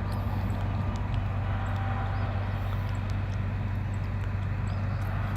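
A steady low engine-like hum, such as an idling vehicle, with a few faint high bird chirps over it.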